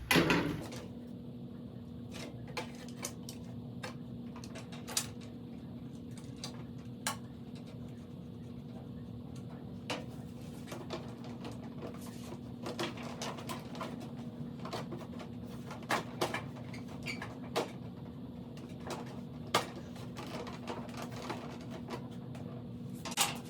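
Scattered sharp plastic clicks and knocks of motorcycle fairing panels being fitted back on, over a steady low hum.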